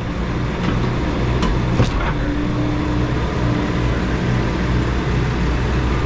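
Heavy equipment engine running steadily, with two short sharp knocks about a second and a half in.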